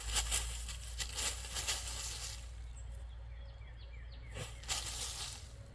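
Dog digging in soft dirt with its front paws, a quick run of scratching strokes that slows after about two seconds and comes back briefly near the end.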